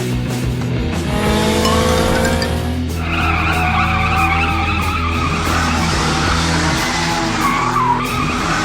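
Cartoon car sound effects over background music: an engine revving up in pitch, then tyres squealing.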